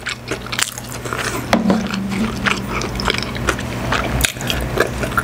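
Close-miked chewing of a mouthful of food, a run of small wet clicks and smacks. Near the end come swallows of a drink from a cup.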